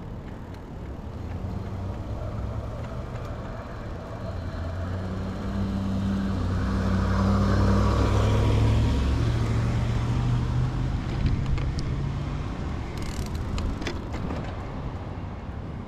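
A motor vehicle passing close by on the road: engine hum and tyre noise build to a peak about halfway through, then fade away.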